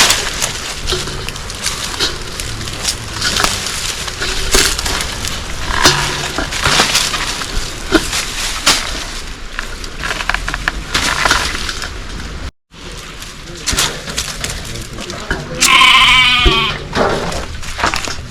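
A goat bleats once, loudly and with a wavering pitch, near the end. Irregular knocks and clatter run throughout, briefly cut to silence about twelve seconds in.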